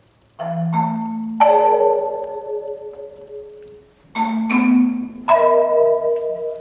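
Marimba played with mallets: two phrases of three struck notes each, about four seconds apart, the notes ringing on and slowly fading.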